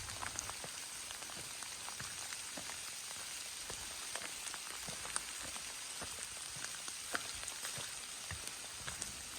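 Steady rain falling, an even hiss with many close drops ticking sharply.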